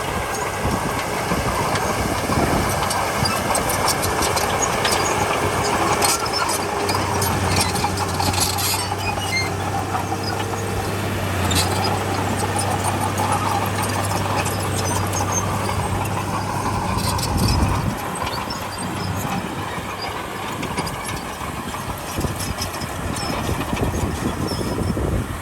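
Crawler bulldozer at work: its diesel engine runs steadily under load while the steel tracks clank and squeal. A low engine hum swells for about ten seconds in the middle.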